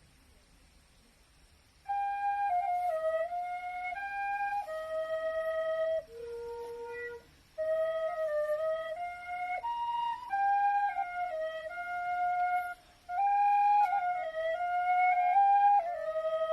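Wooden B♭ quena (Andean notched end-blown flute) playing a slow melody that begins about two seconds in, one note at a time in phrases with brief breaths between them.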